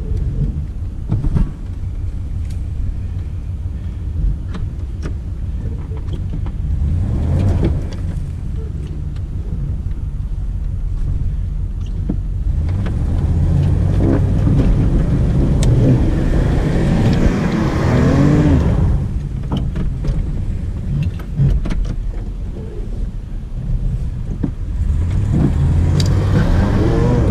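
Pickup truck engine revving under load as the truck, in low four-wheel drive, strains to drag a log by chain; the revs climb and fall twice, the second time near the end. The owner judges that the transmission is slipping on these pulls.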